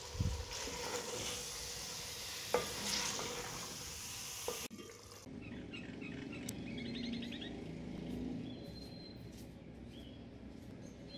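Chicken gizzards and tomatoes sizzling in a clay pot as a wooden spoon stirs them, with a couple of sharp knocks of the spoon against the pot. After about five seconds the sound drops to quieter stirring of the simmering masala gravy.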